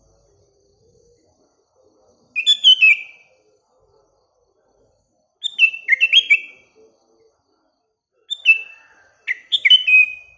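Sooty-headed bulbul (kutilang) singing three short phrases of quick gliding whistled notes a few seconds apart, the last phrase the longest.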